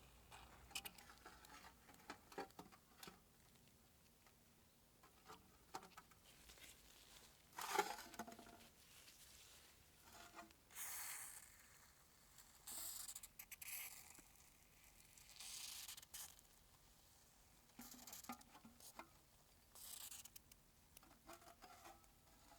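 Faint hand work on small parts: scattered light clicks and taps, a sharper knock about eight seconds in, and four short hissing or scrubbing strokes of about a second each.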